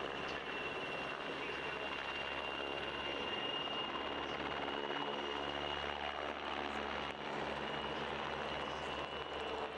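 PZL W-3 Sokół helicopter running steadily, its twin turboshaft engines giving a high, even whine over the rotor noise.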